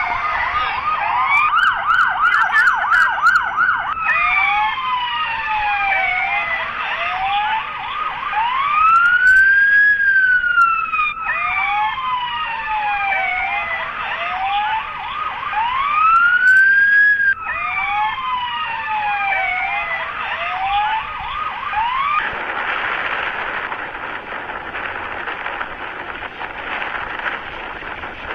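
Several emergency-vehicle sirens sounding at once and overlapping: a fast yelping warble at first, then repeated falling sweeps and long rising-and-falling wails. The sirens cut off suddenly about 22 seconds in, leaving a steady rushing noise.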